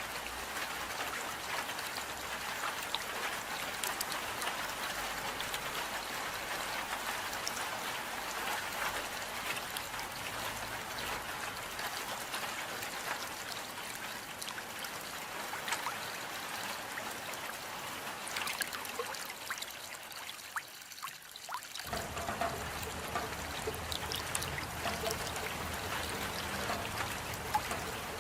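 Steady rain with water trickling and dripping, scattered sharp drop ticks over an even hiss. The sound thins briefly about 20 seconds in, then changes abruptly near 22 seconds to a fuller, deeper wash.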